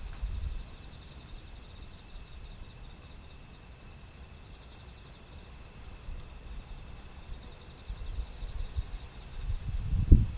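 Insects trilling steadily in the background, with low rumbling gusts on the microphone near the start and a stronger low rumble with a thump about ten seconds in.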